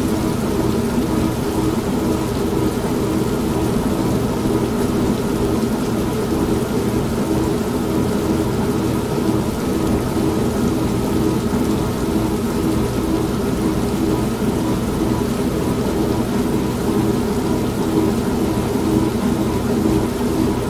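Old manual washing machine running with a steady motor hum, mixed with steady rain and rumbling thunder.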